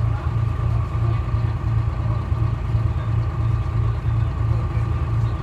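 GMC New Look bus's Detroit Diesel 6V71 two-stroke diesel engine running steadily, with a low throb that pulses about three times a second.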